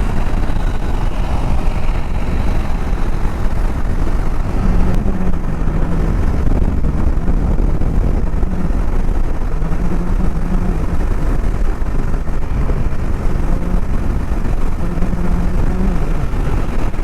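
Bajaj Dominar motorcycle under way: steady, loud low rumble of engine and wind noise, with no sudden events.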